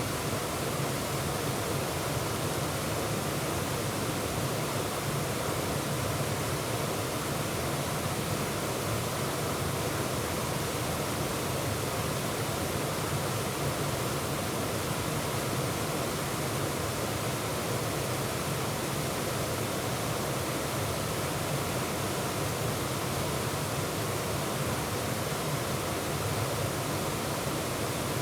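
Waterfall pouring and splashing over rocks in a steady, unbroken rush of white water.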